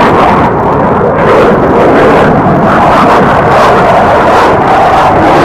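Aircraft engine noise from a low pass: a loud, steady roar that builds just before and holds throughout.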